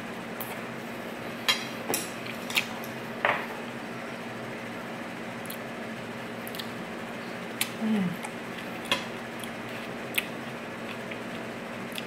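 Fork and utensils clinking against a plate a handful of times as spaghetti is eaten, over a steady low hum.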